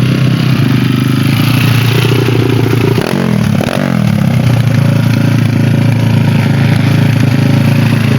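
Motorcycle engines running loudly, with one engine's pitch dropping and then climbing again about three to four seconds in.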